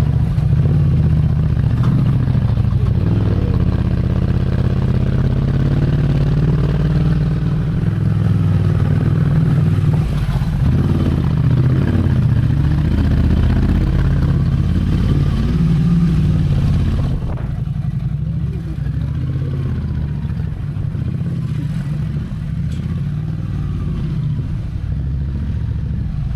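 Ducati Scrambler Desert Sled's air-cooled L-twin running under way on a ride, engine pitch rising and falling a few times early on; about two-thirds through it eases off and gets quieter as the bike slows.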